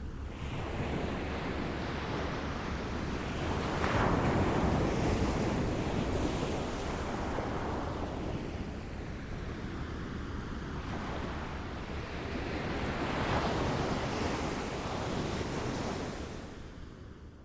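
Small waves lapping at a shore: a steady wash of water that swells twice as waves run in, once a few seconds in and again about two-thirds through, then eases back.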